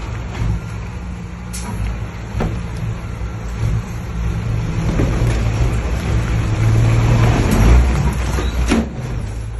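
Heavy diesel engine of an earthmoving machine running under load, growing louder about seven to eight seconds in, with a few sharp knocks.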